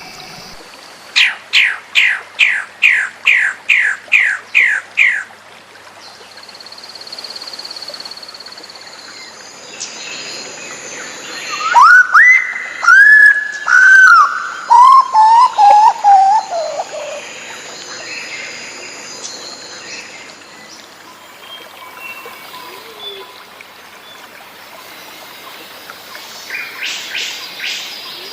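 Recorded songbird song. First a fast run of about a dozen quick, downward-sweeping notes, then a loud series of clear whistled notes stepping down in pitch, then a few short chirps near the end, over a faint steady hiss.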